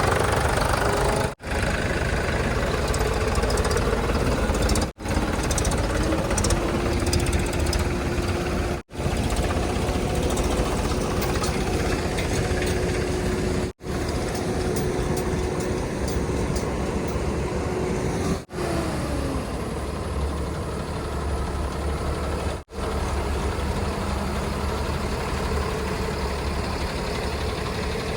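Heavy diesel machinery running steadily, broken by short gaps every four or five seconds. A steady whine holds through the middle and drops in pitch about two-thirds of the way through.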